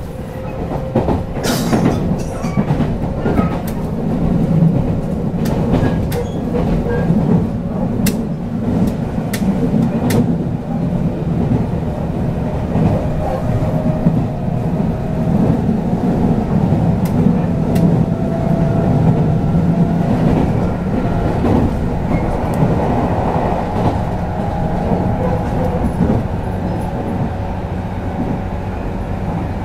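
Running noise inside a JR West 221 series electric train car at speed: a steady rumble of wheels on rail with a faint whine, and sharp clicks over the rail joints during the first ten seconds or so.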